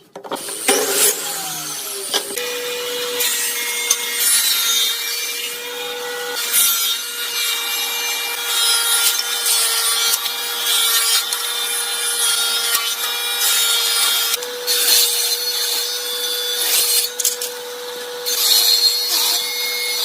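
Power saw cutting wood: a steady motor tone with the hiss and rasp of the blade through the wood. Short, different tool sounds come in the first two seconds.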